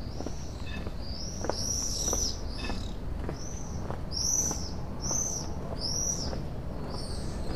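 A small bird calling over and over in short, high notes that each rise and fall, about a dozen of them, with a pause a little after the middle. Soft footsteps can be heard underneath.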